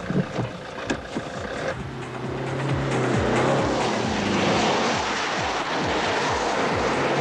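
Alfa Romeo 147's 1.9 JTD four-cylinder turbodiesel driven hard, revving up and down, growing louder about two and a half seconds in. A few sharp clicks come in the first two seconds.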